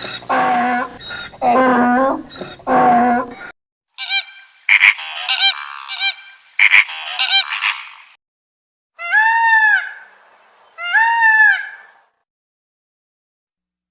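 A run of animal calls in three separate bursts: three drawn-out low calls, then a quick series of shorter, higher honking calls, then two long arched calls that rise and fall in pitch, after which it goes silent.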